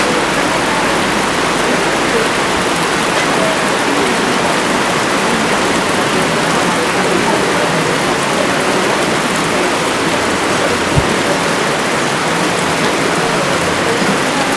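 Steady rain falling, with a brief low thump about eleven seconds in.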